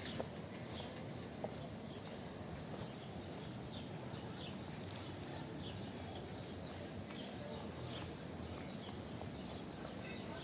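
Small birds chirping repeatedly in short, falling chirps over a steady background hum of outdoor ambient noise.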